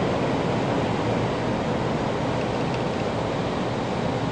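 Tokaido Shinkansen train running at speed through a tunnel, heard inside the passenger cabin as a steady, even rumbling rush.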